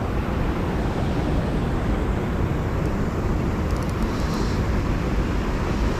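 Steady rushing, rumbling noise of wind buffeting the microphone outdoors, with a few faint high ticks about two-thirds of the way through.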